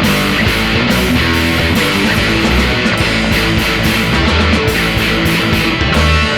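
Instrumental break of a rock song: distorted electric guitars playing with bass and drums, no vocals.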